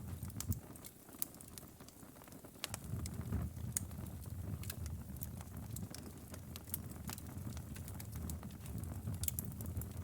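Outdoor wood fire crackling, with frequent sharp irregular pops and snaps over a low rumble of the flames. The rumble drops away about a second in and comes back strongly near the third second.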